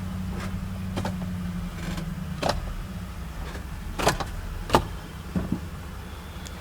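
Ford F-150's 5.4L Triton V8 idling steadily, with a handful of sharp clicks over the running engine.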